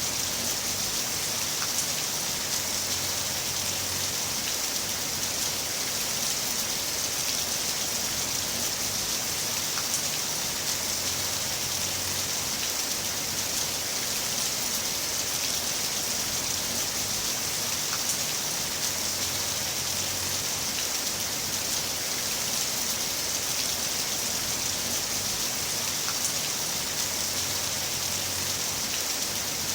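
Heavy rain falling steadily, a dense, even hiss with scattered drops ticking.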